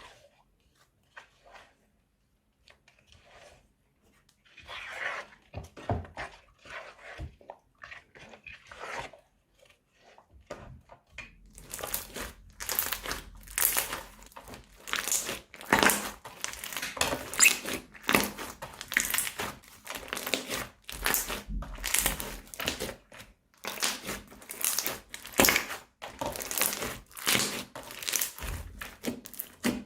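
Slime being squeezed and kneaded by hand, crackling and crinkling. It starts sparse and quiet, then from about a third of the way in turns into dense, loud crackling with many small pops.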